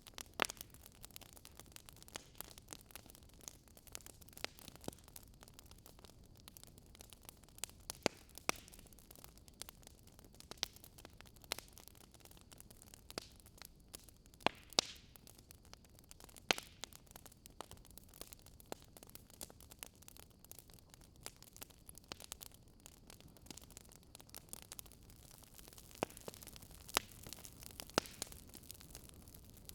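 Wood fire crackling in a fireplace: irregular sharp pops and snaps, a handful louder than the rest, over a soft steady hiss.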